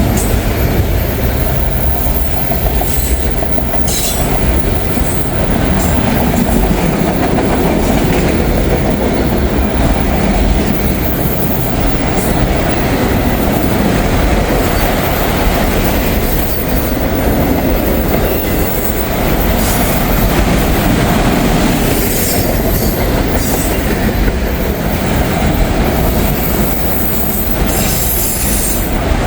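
Freight train cars rolling past close by at a slow pace, steel wheels clacking over the rail joints with some wheel squeal. The train is slowing to take the siding.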